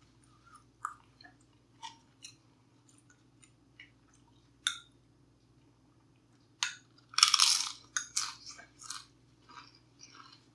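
Close-up eating sounds: small mouth clicks and smacks, then a loud crunchy bite into something crisp about seven seconds in, followed by several crunching chews.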